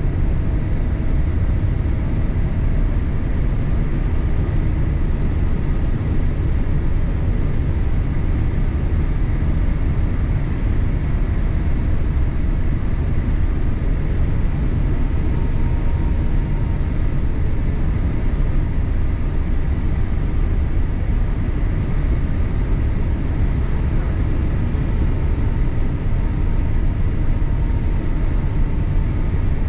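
Steady cabin noise inside a Boeing 787-8 airliner in flight: a continuous deep rumble of airflow and engines, with faint tones that drift slightly in pitch.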